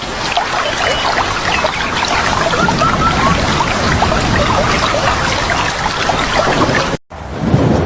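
Steady water noise, dense with small splashes and patters, with a few short bird chirps about three seconds in. It cuts off abruptly near the end into a different, deeper rushing sound.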